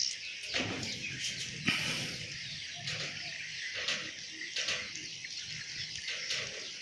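Swiftlets twittering: a dense, continuous stream of short, high chirps and clicks.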